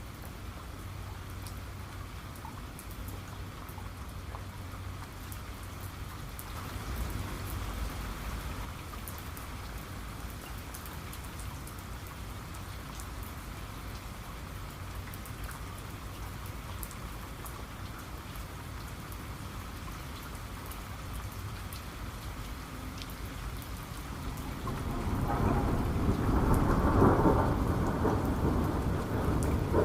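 Steady rain falling, with rolling thunder. A faint rumble swells about a quarter of the way in, and a loud, deep thunder roll builds near the end.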